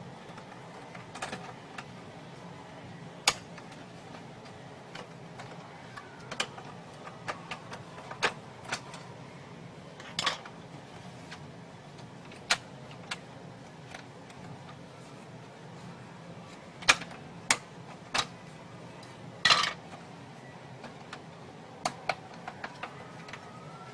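Irregular clicks, taps and knocks of small hard plastic and metal parts being handled during inkjet printer repair work, with a few sharper knocks about three-quarters of the way through, over a faint steady hum.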